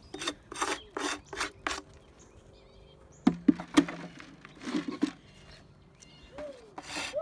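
Wooden beehive frames being handled and scraped in a brood box: groups of short, sharp scraping strokes on wood, with a pause in the middle.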